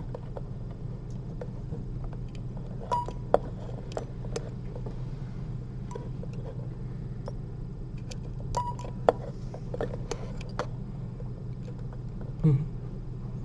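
Scattered small metallic clicks and ticks of surgical instruments being handled while suturing a patch, over a steady low hum.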